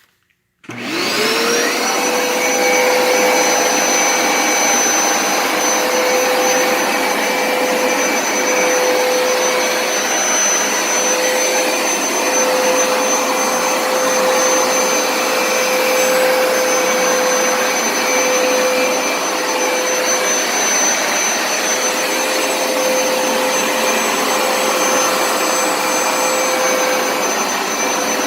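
Hoover Smartwash upright carpet cleaner switching on under a second in. Its motor whine rises to a steady pitch within about a second, then runs steadily.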